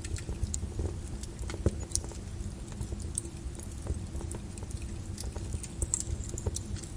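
Wood fire crackling in a fireplace: irregular small pops and snaps over a steady low rumble of the flames.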